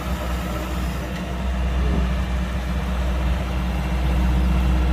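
Kubota DC-105X combine harvester's diesel engine running steadily with a deep, even hum, a little louder near the end.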